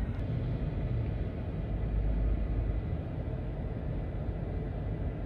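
Off-road SUV engine running with a steady low rumble.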